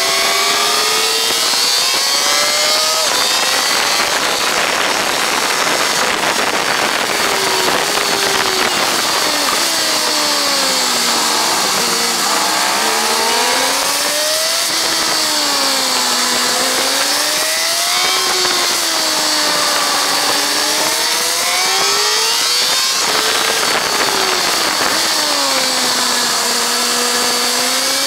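Kawasaki ZZR1400's inline-four engine at track speed, heard from on board: the revs climb, break at gear changes and fall away repeatedly as it accelerates and brakes, with a deep drop and climb about halfway through. Heavy wind rush runs underneath and nearly covers the engine for a few seconds early on.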